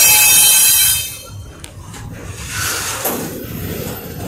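Double-stack container freight train passing close by. A loud, high metallic screech from the wheels lasts about the first second, then gives way to the low rumble of the well cars rolling past, with a knock about three seconds in.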